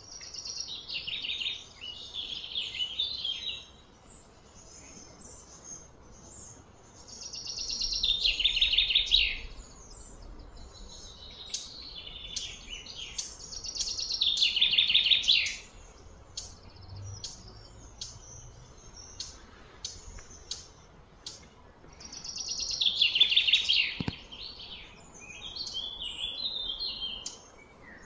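A bird singing: loud, high, trilled phrases that fall in pitch, each two to four seconds long, repeated several times, with short chirps in between.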